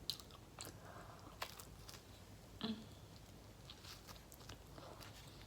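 Close-miked chewing of a mouthful of a saucy sub sandwich: faint, scattered wet mouth clicks and a few small crunches.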